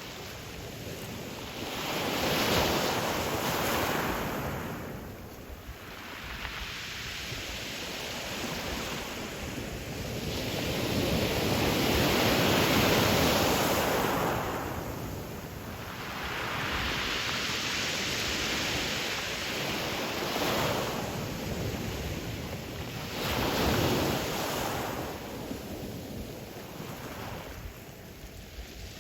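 Ocean surf breaking on a pebble beach, coming in repeated swells: the wash of the waves builds and falls away over several seconds, with about four big surges.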